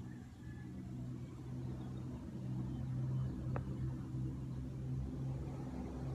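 Tractor engine running steadily, with a single click about three and a half seconds in.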